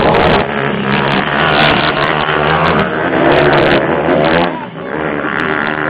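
Motocross motorcycle engines revving at race pace, their pitch rising and falling, with a brief drop in loudness about three-quarters of the way through.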